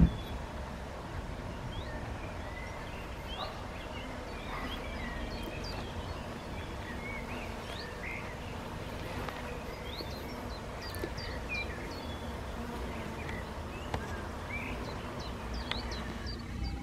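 Small birds chirping in short, scattered calls over a low, steady rumble, with a sharp click right at the start.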